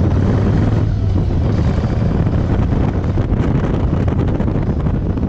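A 2013 Yamaha Roadliner's air-cooled V-twin engine running steadily under way, with wind noise on the microphone.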